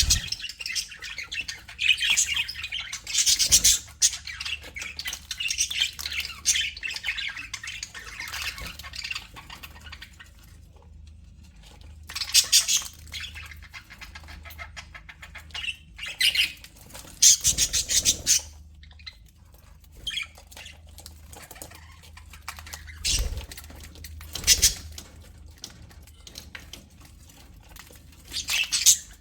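A flock of budgerigars chattering and warbling, with loud squawking calls breaking out every few seconds. The chatter is dense for the first several seconds, then thins to separate bursts.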